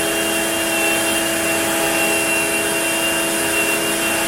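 Onefinity CNC router running a cut: the router motor gives a steady whine of several tones over a constant rushing noise, unchanging throughout.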